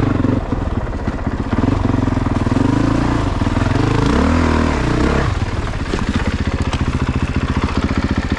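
Honda CRF450RX dirt bike's single-cylinder four-stroke engine running under way, its revs dipping and climbing again about halfway through.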